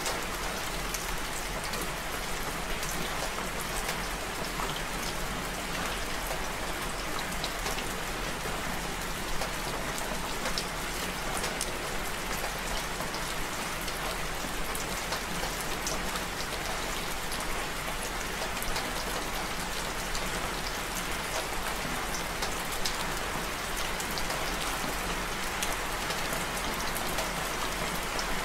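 Steady rain falling: a constant even hiss with many individual drops ticking through it.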